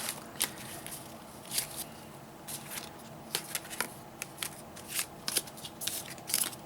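Cardfight!! Vanguard trading cards being handled and sorted by hand: an irregular run of light, sharp card snaps and slides.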